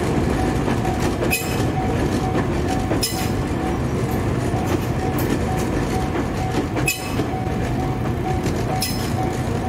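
Delivery train of new Tobu 500 series Revaty cars hauled by a Chichibu Railway Deki electric locomotive, rumbling past slowly. Its wheels give an occasional clack over rail joints. A level-crossing bell rings steadily behind it.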